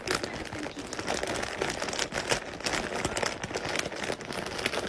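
Steady rustling and crackling noise with many small, quick clicks.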